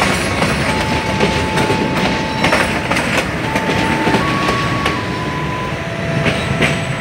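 Passenger train coaches rolling past and away, wheels clicking over rail joints over a steady rumble, with on-and-off high-pitched squeals from the wheels that shift in pitch.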